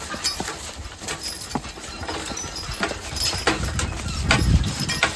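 Hooves of a team of draft horses clopping at a steady walk while pulling a forecart, about one or two hoofbeats a second. A low rumble swells about four seconds in.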